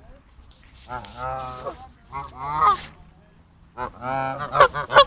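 Geese honking in three bouts, the loudest a run of sharp honks near the end.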